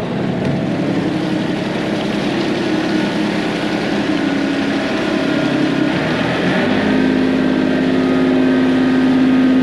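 An engine running steadily. About two-thirds of the way through, its sound changes and settles into a steadier, stronger hum.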